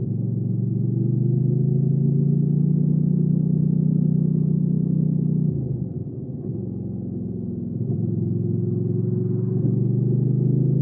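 Hyosung GV300S Aquila 300's V-twin engine running under throttle, its note slowly rising. A little past halfway it drops lower and quieter for about two seconds, then comes back up and climbs again near the end.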